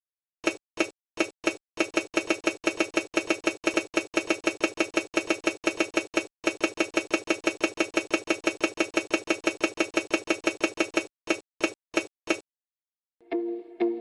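A fast run of short, sharp ringing taps, each with the same pitch. They start slowly, speed up to about six a second, then slow and stop.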